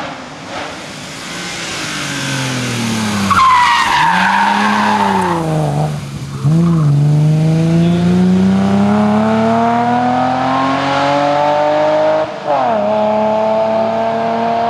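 BMW 3 Series (E30) rally car's engine under hard acceleration. The revs dip and rise as it takes the bend, then climb steadily through a gear, with a quick upshift about twelve seconds in, and climb again as it pulls away uphill.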